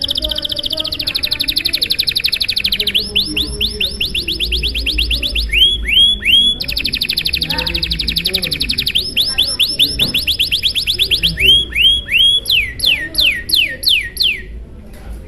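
Domestic canary singing a long song made of fast trills: phrases of rapidly repeated notes, some held on one pitch and some in quick rising or falling sweeps, breaking off about 14 seconds in.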